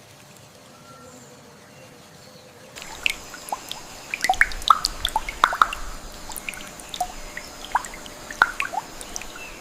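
Water dripping and plopping irregularly, a quick scatter of drops of different pitches, starting about three seconds in after a faint steady hush.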